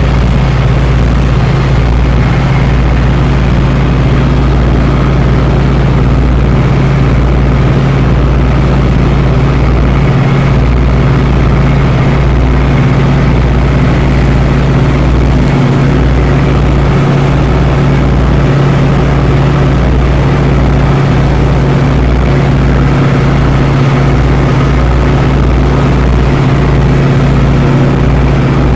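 A tri-motor airplane's engines and propellers drone steadily and loudly, heard by a passenger aboard. The drone has a strong low hum.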